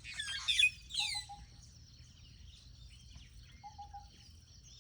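Wild birds calling: several loud, quick downward-sweeping calls in the first second and a half, over a steady background of high chirping from other birds. A short, lower run of three or four notes repeats about every two and a half seconds.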